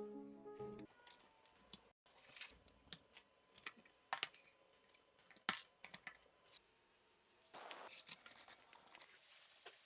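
Irregular sharp clicks, taps and scrapes of hand tools and parts being handled, loudest about five and a half seconds in, with a denser scratchy stretch near the end. Piano music fades out in the first second.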